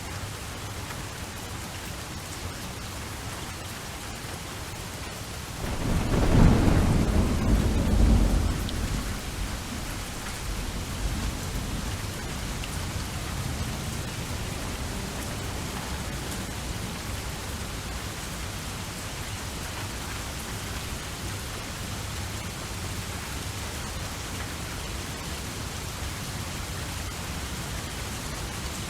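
Steady rain falling, with a thunderclap rumbling in about six seconds in and fading away over a few seconds.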